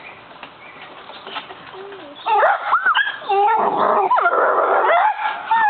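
A dog whining and yipping in high, rising and falling cries, starting about two seconds in, with a rougher, noisier stretch in the middle.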